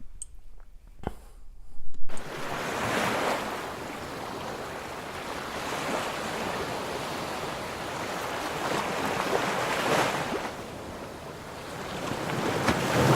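A rushing noise like surf and wind on the microphone cuts in abruptly about two seconds in, swelling and falling in slow surges. A few faint clicks come before it.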